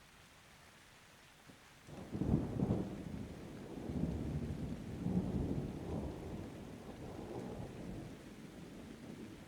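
Thunder rumbling over a light steady rain. The rumble breaks in suddenly about two seconds in and rolls on in several swells, fading out near the end.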